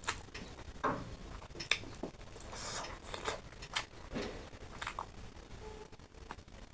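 Close-miked eating sounds: a person chewing food, with scattered sharp clicks and smacks and a few longer wet noises.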